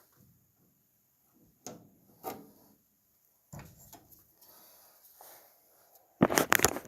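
A few scattered knocks, then a burst of loud, rapid clattering near the end: objects being handled or knocked about.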